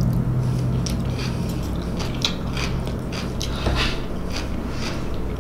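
A person chewing a mouthful of macaroni salad up close: irregular wet smacks and clicks, a few a second, over a steady low hum.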